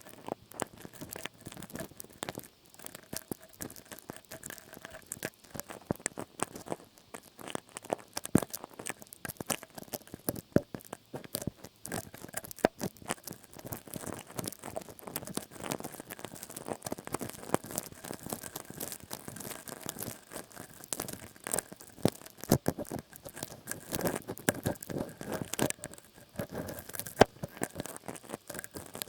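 Close-miked ASMR trigger sounds: a dense, irregular run of crackly scratching and tapping clicks.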